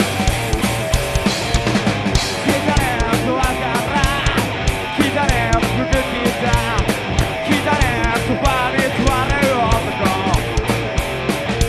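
Rock band playing live: fast, steady drums under electric guitar, with a wavering, bending melody line over most of the passage.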